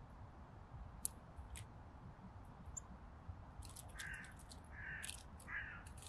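Small birds calling at a feeder: a few thin, high call notes, then, from about three and a half seconds in, a run of sharp clicks and three short harsh rasping calls.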